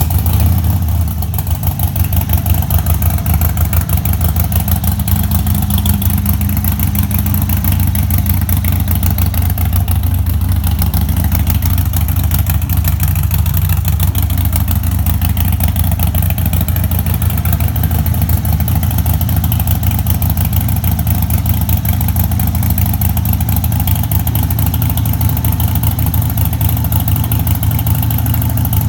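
Harley-Davidson Sportster Iron 1200's air-cooled V-twin running loud and steady at idle through Shark Road straight-through slip-on mufflers.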